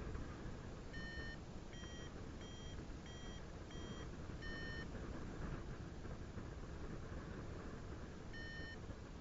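Paragliding variometer beeping: a run of six short beeps, a little higher in pitch in the middle of the run, then one more about four seconds later. This is the climb tone that signals the glider is rising in lift. Steady wind rush on the microphone underneath.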